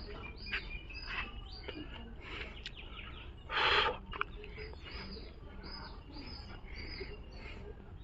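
Small birds chirping repeatedly in short high calls over a low steady background hum, with one brief rustling rush about three and a half seconds in.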